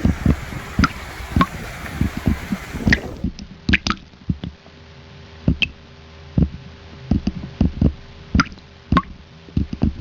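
Irregular wet squelches and drips, a few each second, over a rush of water that drops away about three seconds in.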